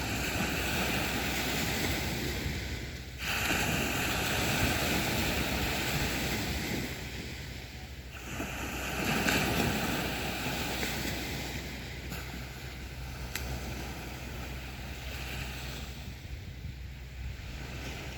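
Sea waves breaking and washing up on a beach, with a louder surge a few seconds in and another about halfway through, then calmer wash.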